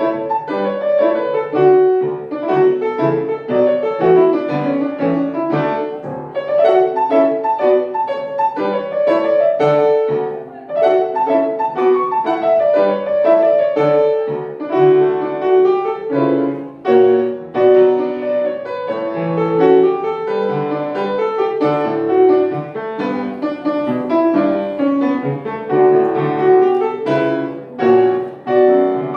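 Solo piano music: a steady stream of struck notes and chords in the middle range.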